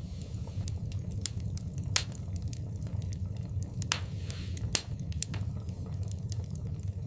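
Wood fire crackling in a fireplace: a steady low rumble of the flames under scattered sharp pops, the loudest about two seconds in and just before five seconds, with a brief hiss around four seconds.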